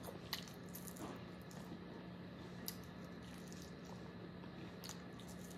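Faint eating sounds of someone chewing chicken wings, with a few soft wet clicks, over a low steady hum.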